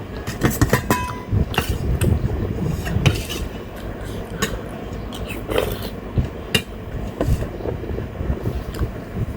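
Eating sounds: cutlery clicking and scraping on a plate in scattered sharp knocks, over the steady low hum of an electric fan.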